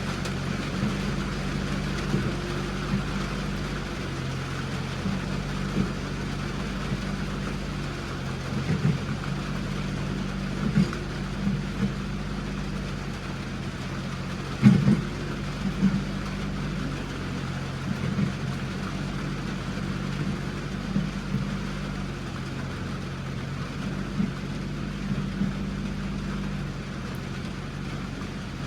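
A vehicle engine running at a steady speed, with scattered knocks and rattles; the loudest knock comes about halfway through.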